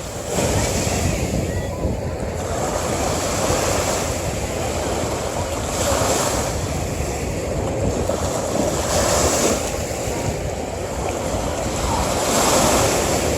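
Ocean surf breaking and washing up a beach in a steady rush, swelling every few seconds as each wave comes in.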